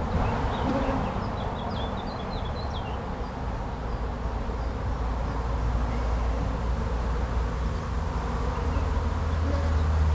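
Honey bees buzzing around an open hive: a steady, dense hum of many bees, with a low rumble beneath it.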